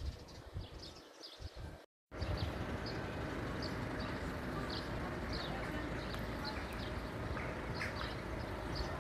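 Small birds chirping repeatedly over outdoor background noise. About two seconds in the sound drops out briefly and returns as a steadier, louder hiss, with the chirping going on.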